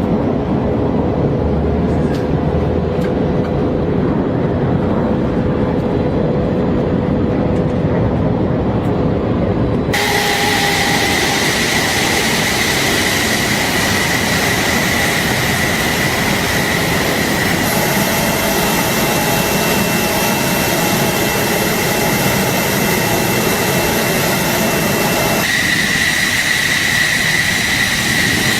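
F-15 fighter jet engines running, a steady roar that takes on a high whine from about ten seconds in. The sound changes suddenly there and again near 18 and 25 seconds, where separate recordings are spliced together.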